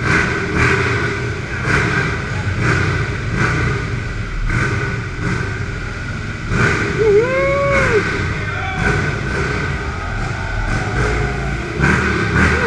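Several motorcycle engines running and revving as they ride in, the revs surging up and down again and again. About seven seconds in, a pitched tone rises and falls over roughly a second.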